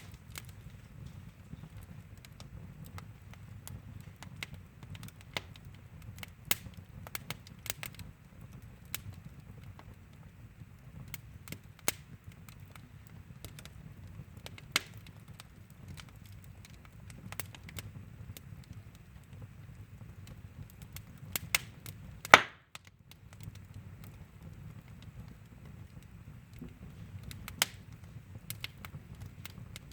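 Fire crackling in a fireplace: irregular sharp snaps and pops over a low steady rumble, with one loud pop about three-quarters of the way through.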